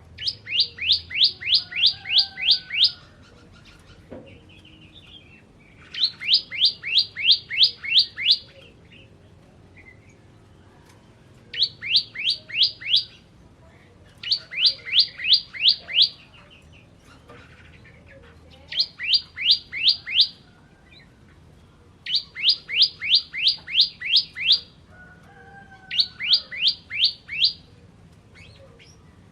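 Bar-winged prinia (ciblek kristal) singing: repeated bursts of sharp, high chirping notes at about four a second, each burst lasting two to three seconds with short pauses between, eight bursts in all.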